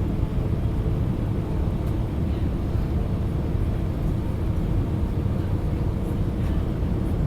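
Steady low roar of an Airbus A319 airliner in flight, with a faint steady hum riding on it.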